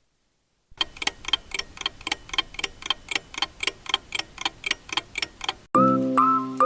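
Steady clock-like ticking, about four ticks a second, starting just under a second in. Near the end it gives way to music with clear, bell-like pitched notes.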